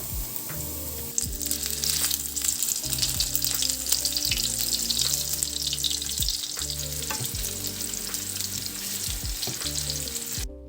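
Food sizzling as it fries in a pan, the sizzle growing louder about a second in and cutting off abruptly near the end. Soft background music plays underneath.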